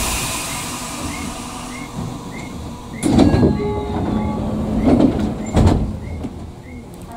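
Tokyu 9000 series electric train running, heard from inside the front car: a steady running rumble, with heavy wheel clatter over rail joints about three seconds in and twice more a couple of seconds later. A short hiss at the very start dies away over about two seconds.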